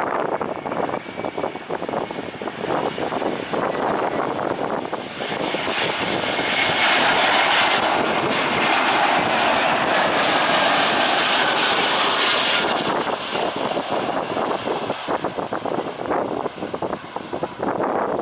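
Landing airliner passing close by. Its engine noise, with a faint whine, swells to its loudest about halfway through and then fades away. Wind buffets the microphone at the start and end.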